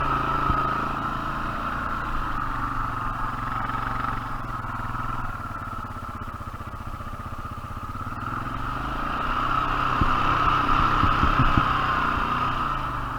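A 450 four-wheel-drive ATV engine running while it works through sticky mud; the engine eases off in the middle and picks up again near the end, with a few knocks.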